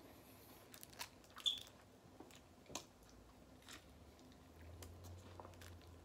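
A person chewing and biting into a soft flour-tortilla taco. The sound is quiet mouth noise with a few scattered soft clicks and smacks.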